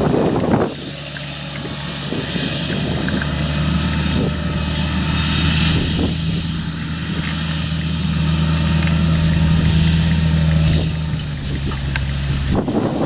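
A steady, low mechanical hum like an engine running at constant speed, which stops abruptly near the end.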